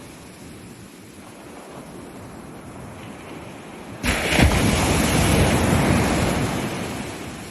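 Ocean surf: a soft wash of water, then about halfway through a wave breaks suddenly and loudly and its rush fades away toward the end.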